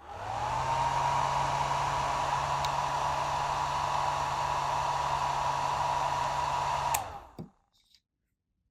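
Small electric motor driving a fan: it spins up to a steady whine over rushing air, runs for about seven seconds, then winds down and stops.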